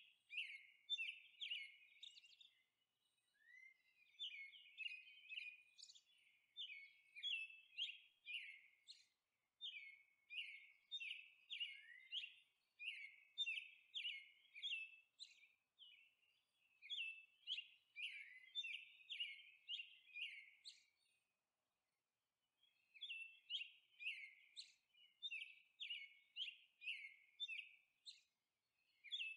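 Faint birdsong: quick series of short, high chirps, pausing briefly about three seconds in and again a little after twenty seconds.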